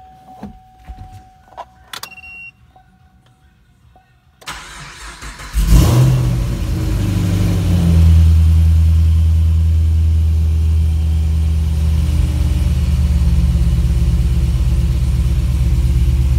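Chevrolet Camaro SS 6.2-litre V8, fitted with long-tube headers and a full stainless X-pipe exhaust, cranked and started: faint clicks at first, then the starter about four and a half seconds in, and the engine catches a second later with a short rev flare before settling into a loud, steady idle.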